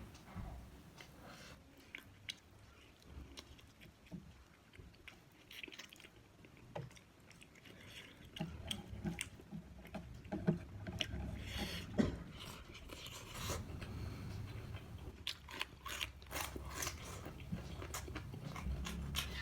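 A person chewing and biting food close to the microphone: scattered wet mouth clicks and small crunches, sparse at first and busier and louder about halfway through.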